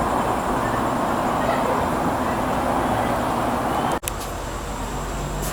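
Steady rushing noise that breaks off abruptly about four seconds in, giving way to a quieter low hum.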